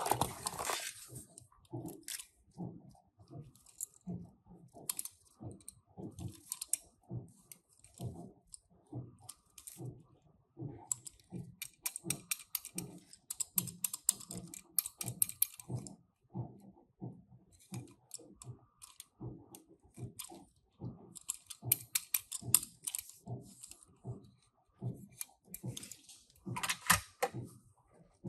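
Small plastic and metal clicks and taps of die-cast toy cars and their packaging being handled, about two or three a second. Several bursts of crinkling packaging come and go.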